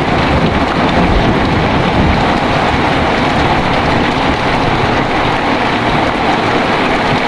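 Heavy rain pouring steadily, with a deep, uneven rumble underneath.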